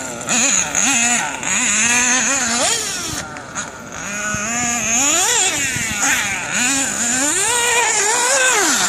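Small engine of a radio-controlled model running, its pitch rising and falling over and over as the throttle is worked, climbing highest near the end.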